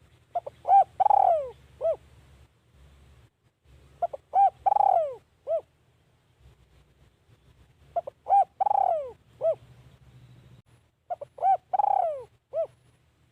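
Spotted dove cooing: four phrases, about four seconds apart. Each phrase is a few short notes, one longer drawn-out coo that falls at the end, and a short final note.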